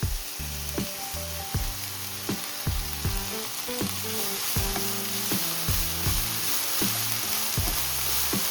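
Sliced green peppers sizzling as they are stir-fried in sesame oil, with stirring in the pan. The sizzle grows louder about halfway through.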